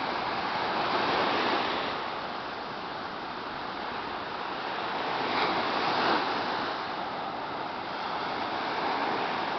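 Sea waves breaking on the shore, a steady wash that swells as waves come in about a second in and again around five to six seconds in.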